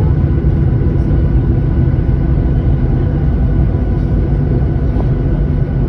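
Jet airliner cabin noise during landing: a steady, loud low rumble of engines and airflow, with faint steady engine whine tones above it, heard from inside the cabin.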